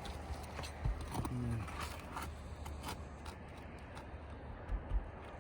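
Scraping and scattered ticks of a shingle removal tool prying up asphalt shingles and working at their nails, with a couple of low thumps near the end.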